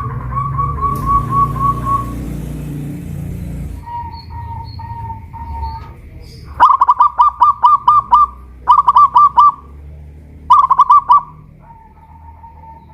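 Zebra doves (perkutut) cooing in rapid runs of short, evenly spaced notes. The loudest runs come in three bursts past the middle, with softer runs at a slightly lower pitch in between. A low rumble sits under the first few seconds.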